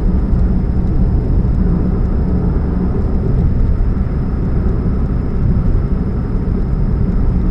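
Steady low rumble of a 2013 Chevrolet Spark on the move, engine and road noise running evenly without change.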